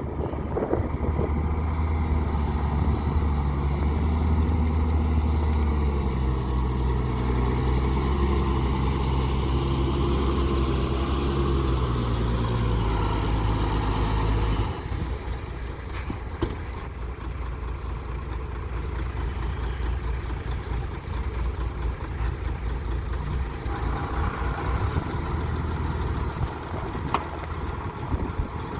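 Heavy diesel engine of earthmoving machinery working hard, its pitch shifting. About halfway through it drops abruptly to quieter, lower running, and a few sharp knocks follow.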